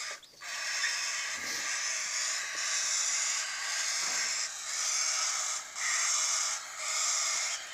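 Baby cockatiel chicks hissing in a run of breathy hisses, each about one to two seconds long with brief breaks between them.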